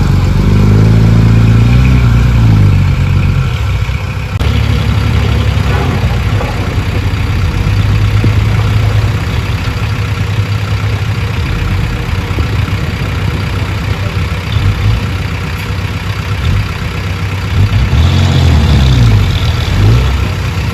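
Heavy diesel engine of an earthmoving machine running, its pitch rising and falling over the first few seconds and again near the end, with steadier running in between.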